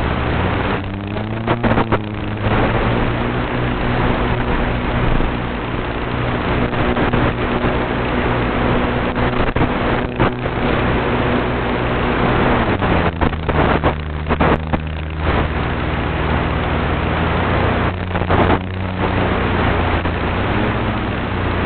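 Flex Innovations RV8 RC airplane's motor and propeller running steadily in flight, its pitch drifting with the throttle and dropping a little about halfway. There are short crackles and breaks in the sound several times.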